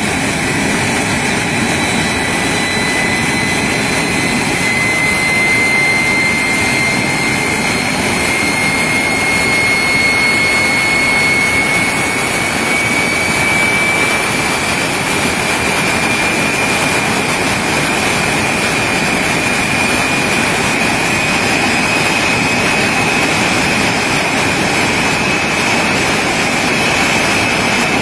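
De Havilland Vampire's jet engine running on the ground: a steady roar with a strong turbine whine that rises slowly in pitch.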